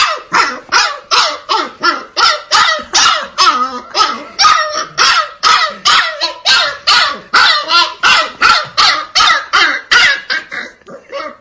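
Husky puppy barking over and over in quick high-pitched yaps, about three a second, each dropping in pitch. The barks grow softer near the end.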